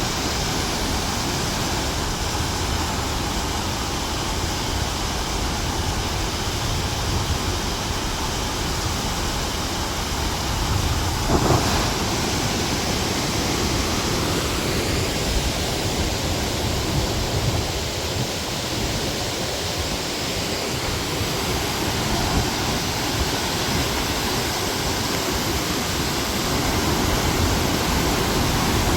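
Waterfall and river water rushing steadily and loudly, an unbroken roar of falling and tumbling water with a brief louder swell about eleven seconds in.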